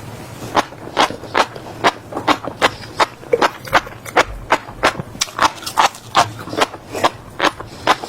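Close-miked chewing of crunchy food, a quick run of sharp crisp crunches at about three a second.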